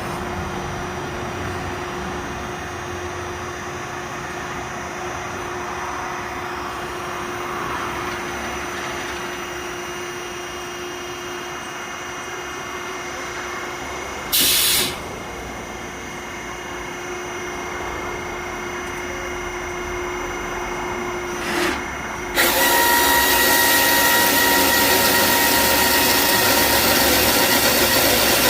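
Engine-driven firewood machine running steadily, with two short loud bursts of noise partway through. About three quarters of the way in it suddenly becomes much louder and harsher, with a high whine, as the machine goes under load.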